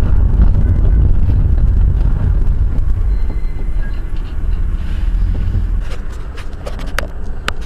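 Steady low rumble of a moving vehicle heard through a dashboard camera, road and engine noise, with a few sharp clicks or knocks near the end.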